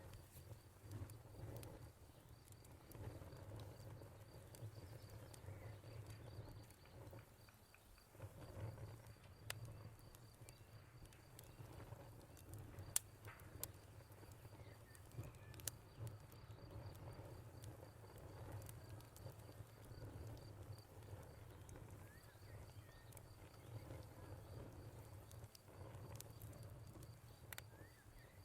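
Faint wood fire crackling with sharp scattered pops, one louder pop about halfway through, over a low steady rumble. A cricket chirps in a fast, even, high trill that pauses briefly in the middle.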